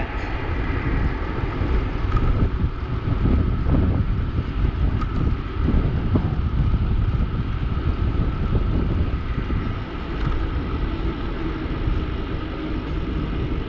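Wind buffeting the microphone of a moving bicycle rider: a steady rushing noise, heaviest at the low end.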